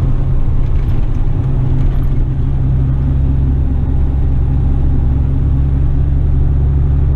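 Western Star tipper truck's diesel engine running steadily under way, a loud, constant low drone with road noise.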